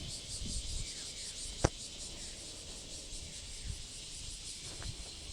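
Cicadas droning in a steady high-pitched chorus, with a low rumble beneath and one sharp click nearly two seconds in.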